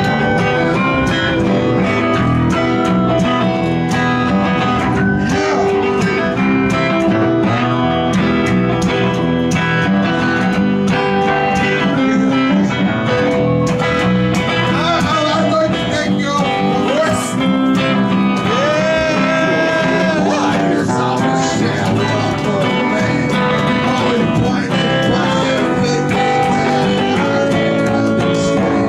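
Live music played on guitar, strummed and picked, with a voice singing over it at times.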